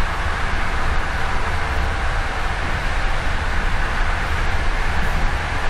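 Steady running noise of a passenger train carriage heard from inside, travelling at speed: an even low rumble under a broad hiss of wheels on rail.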